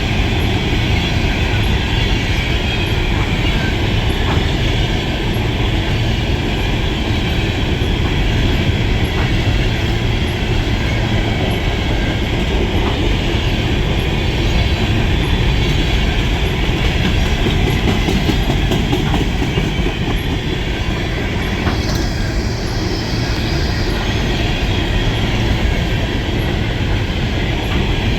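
Empty coal cars of a BNSF freight train rolling past, a steady loud rumble and clatter of steel wheels on the rails. A higher squeal from the wheels rises briefly about 22 seconds in.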